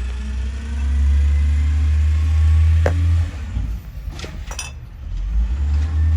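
Garbage truck engine running with a low rumble that drops away about three seconds in, a few sharp clanks, then rises again near the end.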